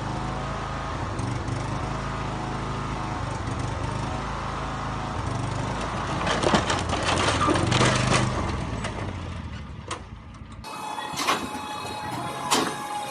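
Motor vehicle engine running steadily, with a burst of knocks and rattling about six to eight seconds in, then an abrupt change to a different, thinner sound with scattered clicks near the end.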